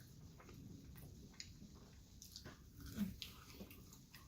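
Quiet eating sounds: faint wet mouth clicks and chewing, with one short, slightly louder pitched squeak about three seconds in.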